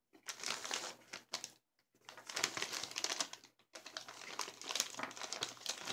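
Crinkling of individually wrapped taffy candy packaging being handled and unwrapped, in crackly spells with short pauses about two seconds in and near four seconds.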